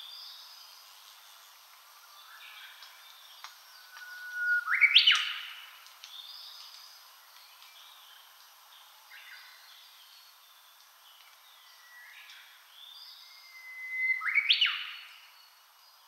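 Wild songbird singing twice, about ten seconds apart. Each song is a held whistle that breaks into a quick, loud flourish. Fainter short calls of other birds come in between.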